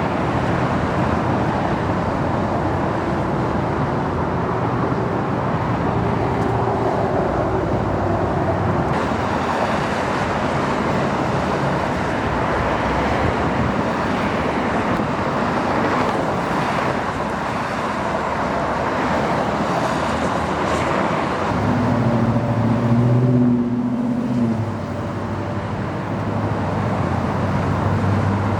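Steady freeway traffic noise, a continuous roar of passing vehicles. About two-thirds of the way through, one vehicle's engine hum grows louder for a few seconds, then fades back into the traffic.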